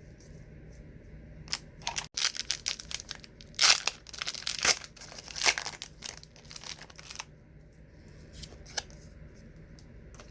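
A 1990s wax-paper trading card pack being torn open and crinkled: about five seconds of ripping and crackling wrapper, loudest in the middle, then a single light tap.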